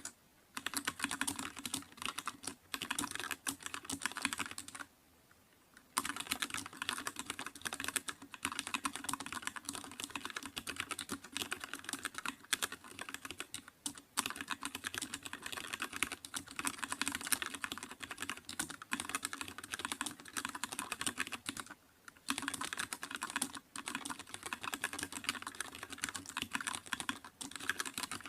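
Computer keyboard being typed on quickly and continuously, a dense stream of key clicks. The typing stops for about a second around five seconds in and briefly twice more later.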